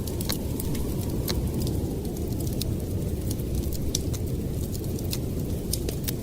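A steady low roar of storm wind, with the irregular sharp crackles and pops of a wood fire scattered over it.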